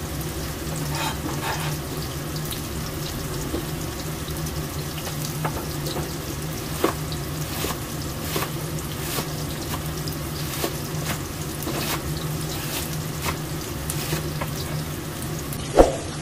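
Tofu cubes deep-frying in hot oil in a wok: a steady sizzle with scattered crackles and pops, and one sharp knock near the end.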